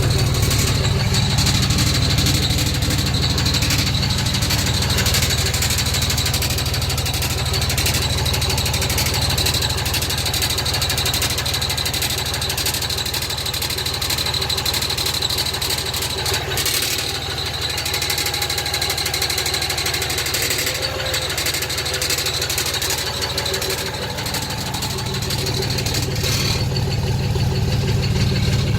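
Diesel engine idling with a rattle from its newly installed exhaust system. The new exhaust is loose or badly fitted.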